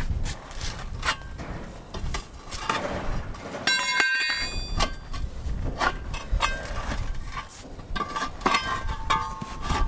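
Metal tyre-fitting tools clinking and knocking in irregular strokes, with one ringing metallic clang about four seconds in.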